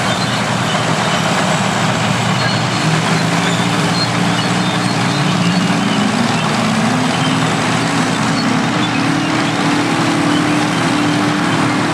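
Heavy diesel engines of vintage earthmoving machines working, their revs rising and falling several times under load.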